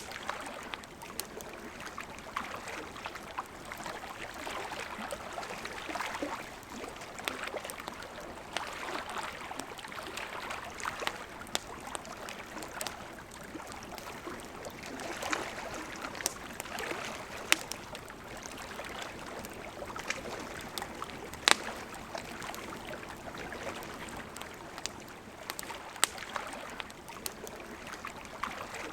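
A river flowing steadily while a campfire crackles, with scattered sharp pops from the burning wood. The loudest pop comes about three-quarters of the way through.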